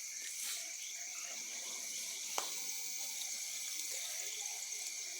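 Ground fountain firework (an 'árvore de Natal' fountain) hissing steadily as it sprays sparks, with one sharp crackle about two and a half seconds in. Insects keep up a steady high drone behind it.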